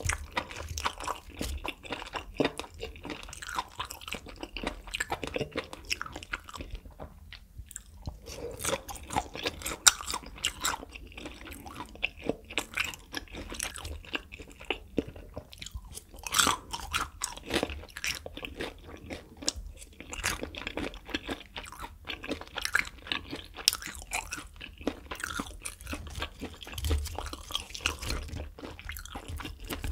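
Close-miked chewing of grilled beef intestines (makchang), with many short, sharp mouth clicks and smacks and a brief pause about seven seconds in.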